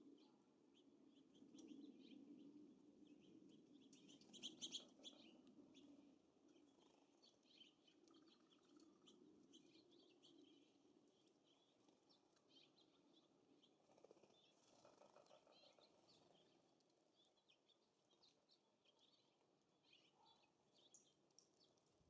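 Faint chirps and calls of small songbirds at a feeder, many short high notes scattered throughout, with a louder flurry about four to five seconds in, over a low steady background hiss.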